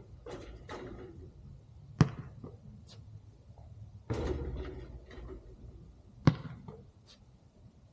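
A basketball bouncing hard on the court twice, about four seconds apart, with softer scuffling and rattling noises before each bounce.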